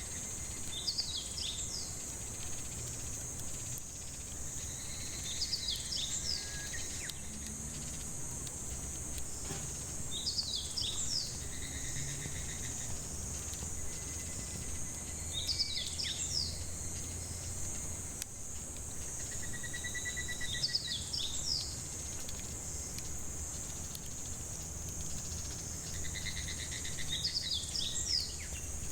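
Cicadas droning steadily in a high-pitched chorus, while a bird repeats the same short song phrase about every five seconds: a brief trill, then a few quick higher notes.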